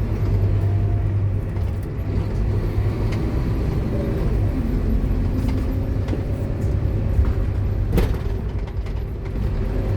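Scania K230UB Omnilink bus running, its diesel engine and ZF Ecomat automatic gearbox giving a steady low drone. A sharp knock comes about eight seconds in.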